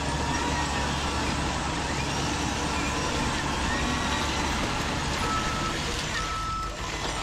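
Heavy truck engine sound running steadily, as played by an RC construction model's sound unit. From about five seconds in, a short beeping tone repeats about once a second, like a reversing alarm.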